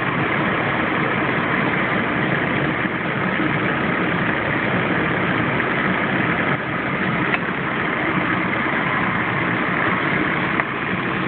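1998 Chevy Blazer's 4.3-litre V6 idling steadily with the air conditioning on and its compressor engaged while the system is being charged with refrigerant. A small click sounds about seven seconds in.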